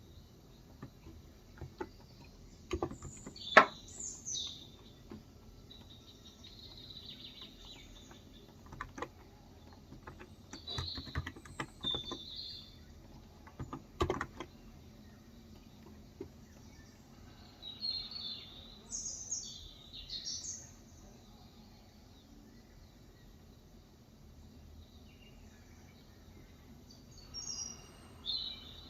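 Small songbirds chirping in short, high phrases that come in several clusters. Sparse, sharp keystrokes on a Cox Endeavour electrocapacitive (Topre-style) 35 g keyboard fall in between, in a few short runs. The loudest sound is a single hard key stroke a few seconds in.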